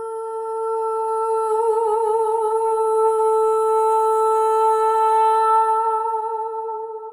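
A voice holding one long hummed note at a steady pitch, with a brief waver about two seconds in, fading near the end.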